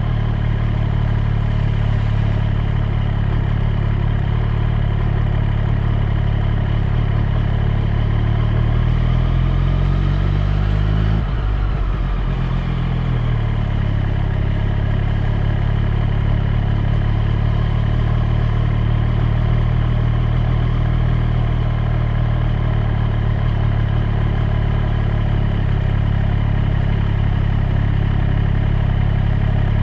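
Triumph Street Triple 765 R's three-cylinder engine ticking over at low revs, with a brief gradual rise in revs about eight to eleven seconds in that cuts off, after which it settles back to a steady low note.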